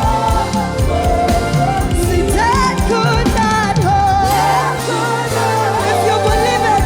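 Live praise and worship song: a singer's melody over a band with drums and bass. The drums drop out for about two seconds a little past the middle, leaving held bass notes under the voice, then come back in.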